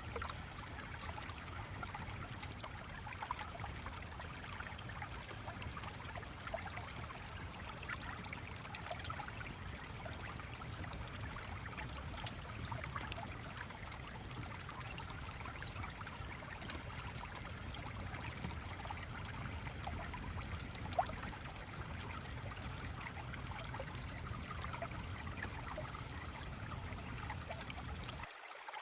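Stream flowing and trickling steadily, with scattered small clicks over it and a low rumble underneath that cuts out shortly before the end.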